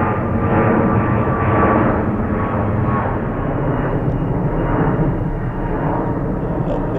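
Jet airliner engines running loud and steady, with a hum of steady tones under the jet noise, easing off slightly after about two seconds.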